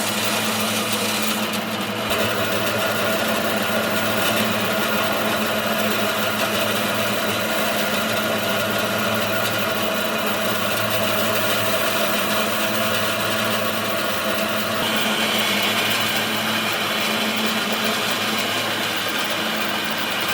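A power tool's motor running steadily, with a constant hum; its tone shifts about two seconds in and again about three quarters of the way through.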